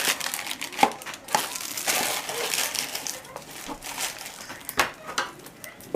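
Crinkling and rustling of packaging being opened by hand, with many small sharp crackles, as a Funko mystery-mini figure is unwrapped.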